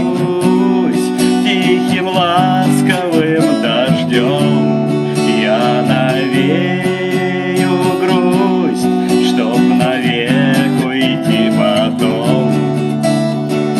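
Acoustic guitar playing chords, with a wavering melody line over the top.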